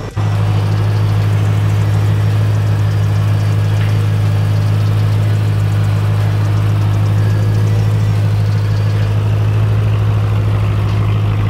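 BMW E90 M3's V8 engine idling, a steady even drone that comes in abruptly just after the start and holds at one pitch.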